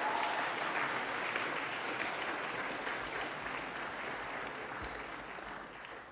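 Audience applauding in a hall, starting strong and dying away towards the end.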